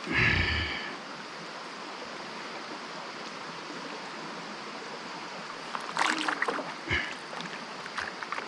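Mountain stream running steadily, with a brief splash-like sound in the first second and a cluster of short splashes and knocks about six to seven seconds in.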